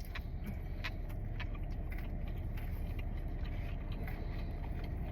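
Steady low hum of an idling car, heard from inside the cabin, with a few faint clicks of chewing over it.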